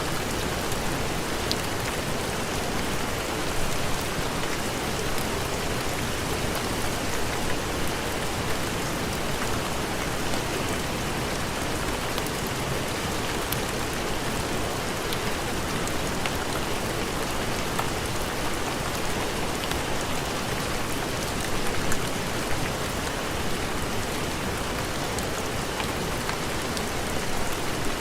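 Steady heavy rain, a dense even hiss of falling drops, with a few scattered sharp ticks and a brief louder swell a little past twenty seconds in.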